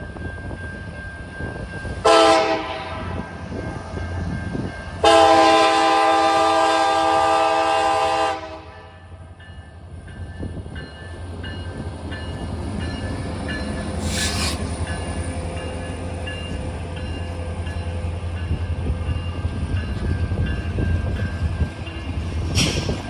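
Alaska Railroad EMD diesel locomotive sounding its horn: a short blast, then a longer one of about three and a half seconds. Afterwards the locomotive's diesel engine rumbles low and steady, with two brief hisses.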